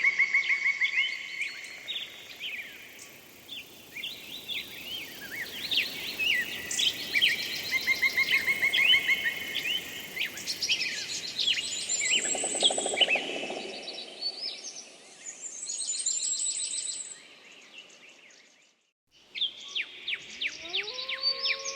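A chorus of several songbirds singing: fast trills, chirps and whistled notes overlapping. After a short gap near the end, wolves begin howling, their calls rising and then holding long steady notes.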